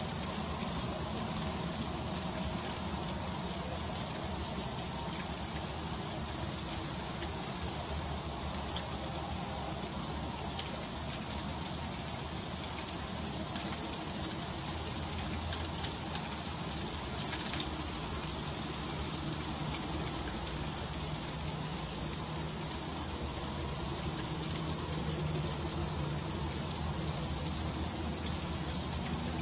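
Freezing rain falling steadily in an ice storm, an even hiss of drops that does not let up.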